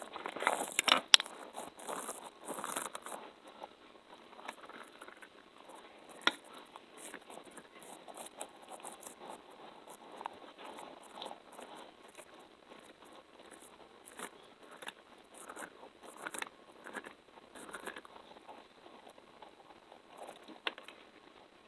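Close-miked ASMR sticky and tapping sounds: irregular soft clicks and crackles, busy and loudest for the first few seconds, then sparser, with an occasional sharper tap.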